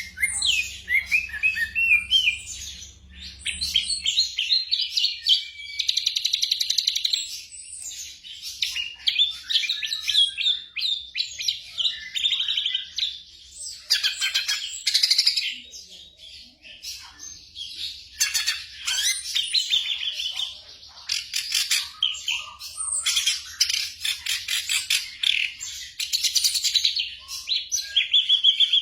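Black drongo song: a continuous, varied string of quick chirps, trills and whistled phrases with short gaps between bursts.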